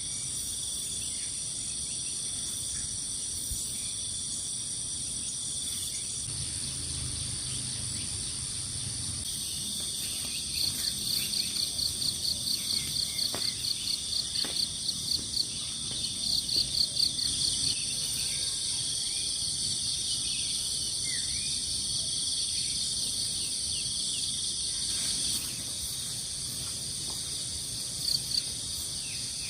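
Chorus of crickets and other night insects, a steady high-pitched buzzing, with one nearby insect chirping in a fast pulsed trill from about ten seconds in to about seventeen seconds, and briefly again near the end.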